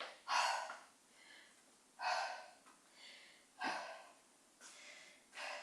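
A woman breathing hard, catching her breath after exertion: deep, noisy breaths about every one and a half to two seconds, with softer breaths in between.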